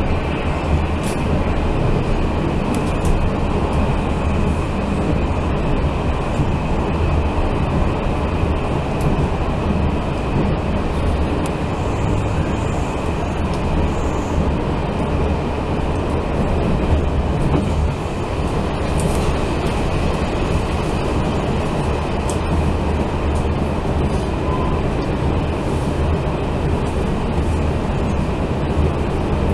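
Steady running noise of a Taiwan Railway Fu-Hsing express passenger coach at speed, heard from inside the car: the wheels rolling on the rails give a constant low rumble.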